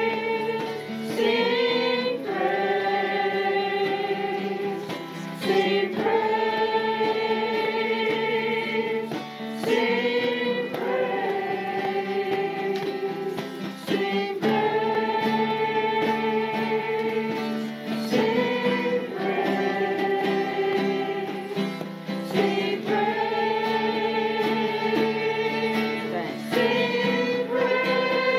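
Congregation and worship team singing a praise song together, long held notes changing every few seconds over instrumental accompaniment.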